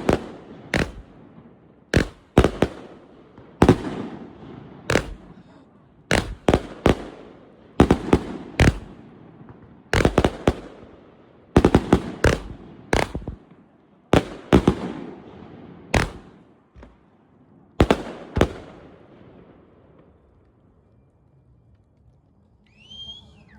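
Halen 64-shot firework cake firing: a long irregular string of sharp bangs, often in quick pairs and each trailing off in a crackling decay, stopping about 18 seconds in.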